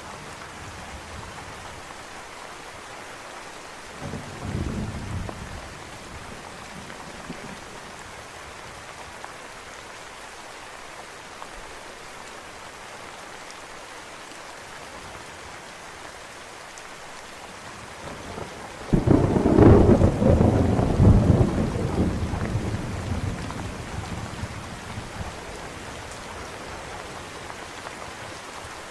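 Steady rain falling throughout, with a brief low roll of thunder about four seconds in. About two-thirds of the way through, a loud close thunderclap breaks in and rolls on, fading out over the next several seconds.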